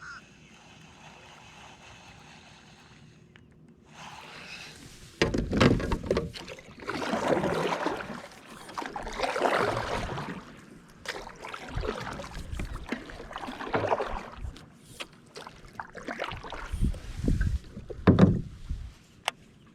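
Kayak paddle strokes in the water, a swishing splash about every two seconds after a few seconds of quiet, with a few knocks of the paddle or hull.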